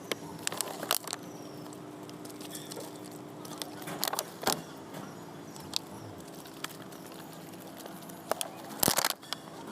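A steady machine hum, with scattered sharp metallic clinks and clatters; the loudest cluster comes just before the end.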